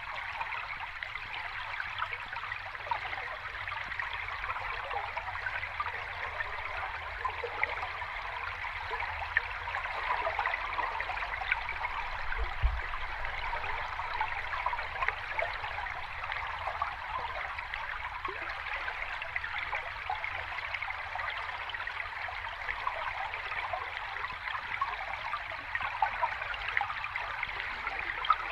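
Water of a small cascade or stream running steadily, a constant rush full of small trickling splashes. A brief low bump comes about twelve seconds in.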